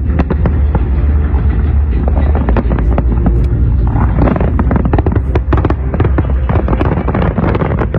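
Aerial fireworks display: rapid bangs and crackling from many shells bursting in quick succession, over a steady low rumble. The crackling grows denser about halfway through.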